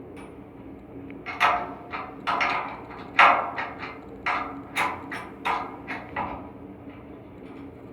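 An irregular series of sharp knocks, about a dozen over some five seconds starting about a second in, each ringing briefly, over a steady low hum. These are hammer or tool strikes on an air handling unit's blower assembly during a V-belt change.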